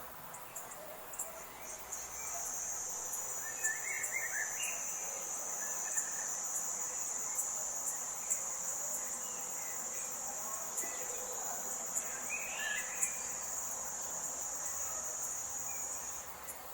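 An insect's steady, high-pitched trill starts about two seconds in and stops shortly before the end. It plays over a forest background, with a couple of brief bird calls.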